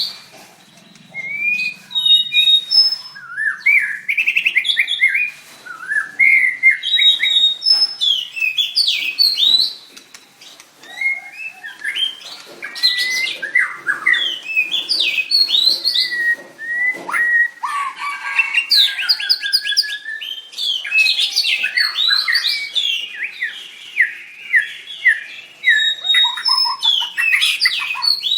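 White-rumped shama singing: loud, varied phrases of rich whistles, chirps and rapid trills, each phrase a few seconds long and separated by short pauses.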